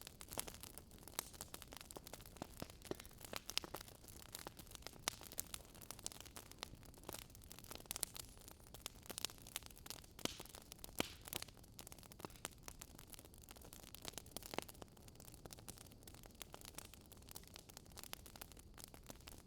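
Wood fire crackling: irregular sharp pops and snaps from burning logs over a low steady hiss.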